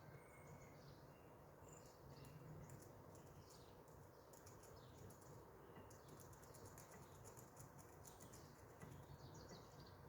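Near silence: faint outdoor background hiss with a few faint high bird chirps and a run of faint, quick high clicks through the middle.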